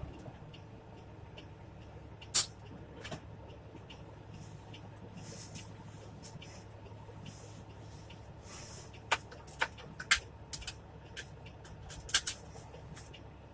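Truck running at low engine speed, heard from inside the cab as a steady low hum. Several sharp clicks and knocks sound over it: one about two seconds in, a quick run of them about nine to ten seconds in, and two more near the end.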